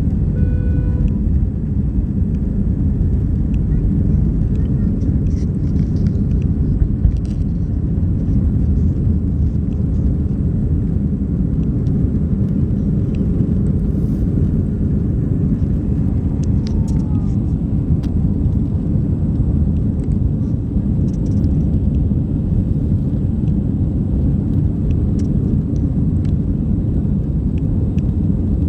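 Steady low rumble of jet engines and airflow heard from inside an airliner cabin. A short tone sounds briefly near the start.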